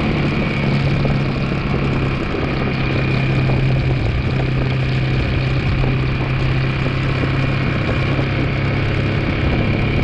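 2002 Yamaha 225 motorcycle's single-cylinder four-stroke engine running steadily while the bike is ridden, a constant low drone. The owner suspects a transmission or clutch problem behind the noise it is making.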